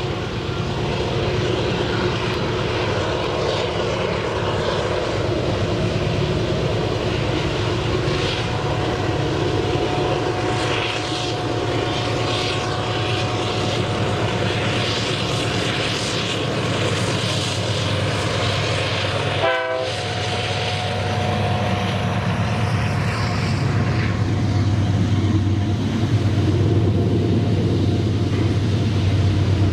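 Diesel locomotive engines running steadily as a freight train passes, a low drone with a steady hum over it. It cuts off briefly about two-thirds of the way through, then grows louder near the end.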